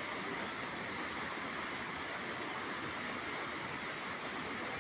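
Steady, even rush of water from a waterfall pouring into a swimming hole.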